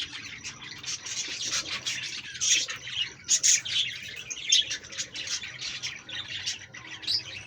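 A flock of aviary birds chirping and squawking all at once in a dense, continuous chatter, with louder calls standing out every second or so.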